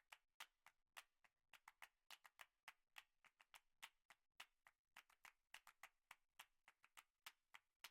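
Near silence broken by faint, irregular clicks, about three or four a second.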